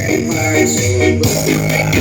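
Loud electronic dance music with heavy bass, played through a large carnival sound system. The beat thins out for about the first second, then the deep bass and drums come back in.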